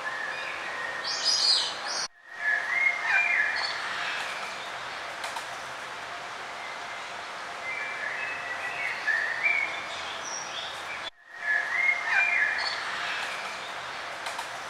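Several songbirds chirping and singing in short whistled phrases over a steady outdoor hiss. The sound drops out sharply for an instant about two seconds in and again near eleven seconds, and the same phrases repeat after each break, as in a looped recording.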